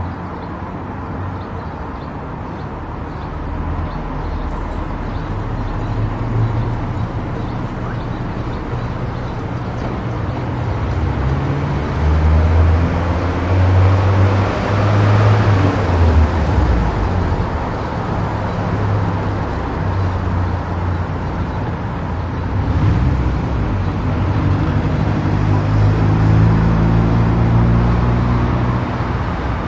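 Car driving at highway speed: a steady drone of tyre and road noise with a low engine hum, swelling louder twice.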